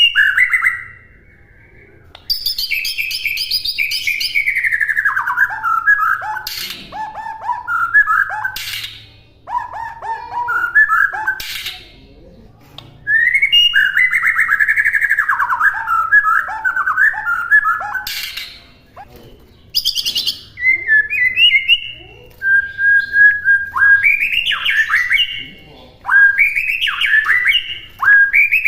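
White-rumped shama (murai batu) singing a training song: phrases of clear whistles and quick warbled notes, several seconds each, often falling in pitch, with short pauses between them.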